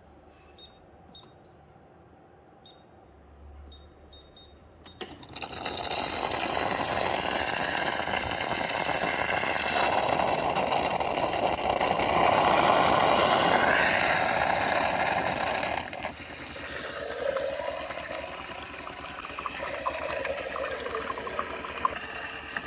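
Double-boiler espresso machine's steam wand hissing loudly from about five seconds in. The hiss drops a few seconds before the end and goes on softer, with a wavering tone.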